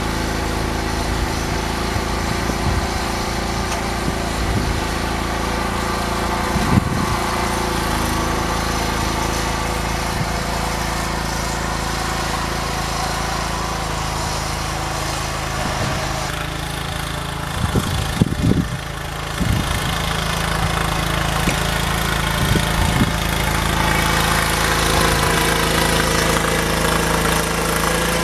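Small garden tractor engine running steadily while plowing snow, with a few short knocks or clunks about seven seconds in and again around eighteen seconds.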